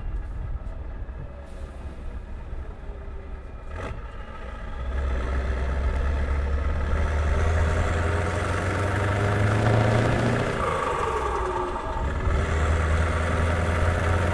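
Scania V8 truck engine running, quieter at first, then getting louder about a third of the way in as the revs climb, with the engine note dropping sharply about three-quarters of the way through before running on steadily.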